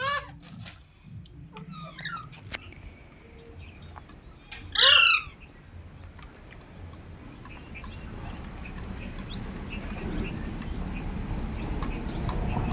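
Indian ringneck parakeet giving short, harsh squawks: one right at the start, fainter ones about two seconds in, and the loudest, a quick string of shrill notes, about five seconds in. A low rumbling noise builds up through the second half.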